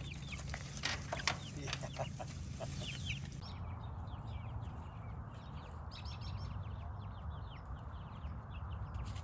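Young laying-hen chicks peeping, many short high falling peeps one after another, over a steady low rumble.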